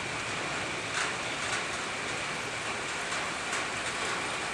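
Steady rain falling, with scattered individual drops ticking now and then.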